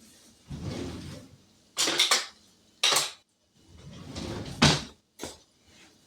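Kitchenware being handled: a series of separate knocks, clinks and scrapes, with a sharp knock near the end being the loudest.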